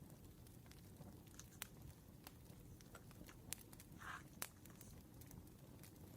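Campfire crackling faintly: scattered sharp pops and snaps over a low steady rumble, with a brief hiss about four seconds in.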